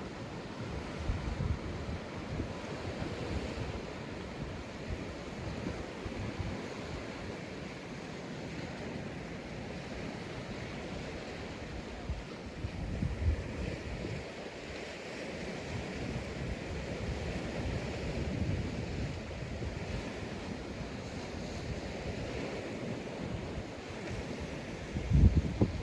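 Sea waves breaking and washing on a sandy beach in a steady surf, with wind gusting on the microphone in low thumps, the strongest near the end.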